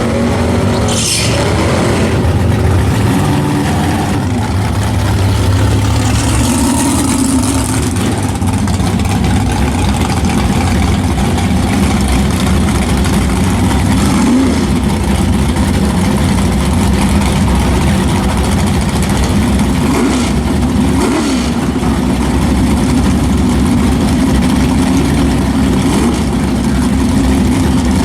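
Car engine running steadily, with a couple of brief pitch rises about halfway through and again about three-quarters through.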